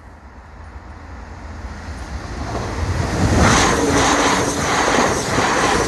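Class 172 Turbostar diesel multiple unit passing through the station, growing louder over about three seconds as it approaches, then running past with a rhythmic clatter of wheels on the track.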